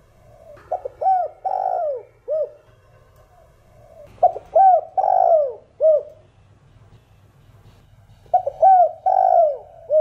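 A spotted dove cooing in the 'thổ đồng' voice. It sings three phrases about four seconds apart, each a quick run of short arched coos that ends in a longer, drawn-out coo.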